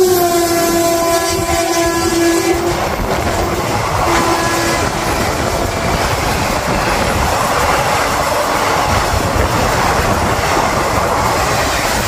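Electric locomotive's horn held for about two and a half seconds as an oncoming passenger train passes on the next track, its pitch dropping as the locomotive goes by, then a short second horn blast about four seconds in. After that comes the steady noise of the passing coaches and train wheels running on the rails.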